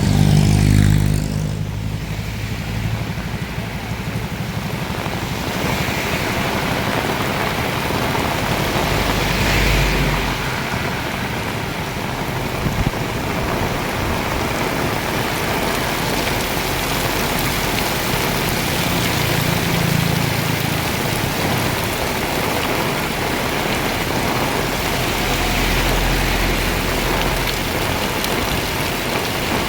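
Heavy rain pouring steadily. A passing vehicle's engine drops in pitch as it goes by at the start, and further vehicles rumble past about a third of the way in, around two-thirds, and near the end.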